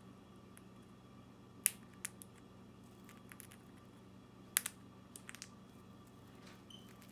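A conure cracking millet seeds with its beak: scattered sharp little clicks and crunches, the loudest about a second and a half in and again past four and a half seconds, over a faint steady low hum.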